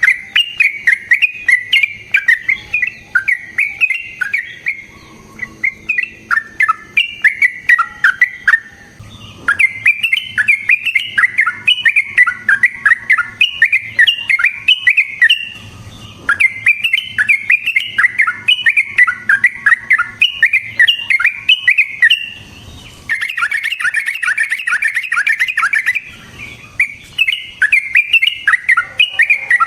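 Yellow-vented bulbul (trucukan) singing in long, rapid runs of short bubbling notes, broken by a few brief pauses.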